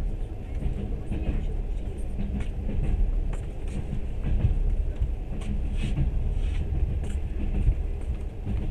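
Train running along the track, heard from on board: a steady low rumble with scattered light clicks.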